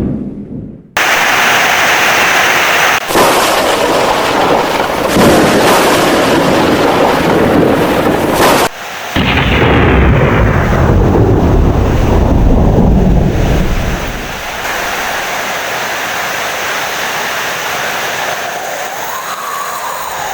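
Thunder: a loud crash comes in about a second in and rolls on with several sharp cracks, then dies away about fourteen seconds in, leaving steady rain.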